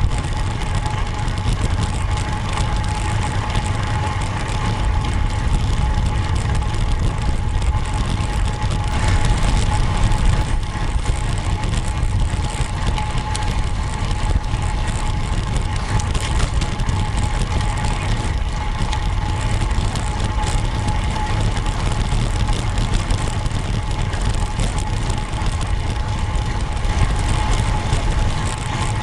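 Steady wind and road noise from a road bike being ridden, heavy low rumble from wind on the microphone, with a thin, steady whine.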